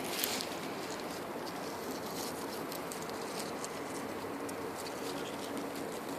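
Woodland ambience: a steady hiss with scattered light ticks and crackles, and a faint low call in the background partway through.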